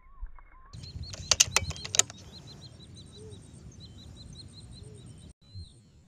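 Small birds chirping over and over, with a quick run of four or five sharp clicks about a second in.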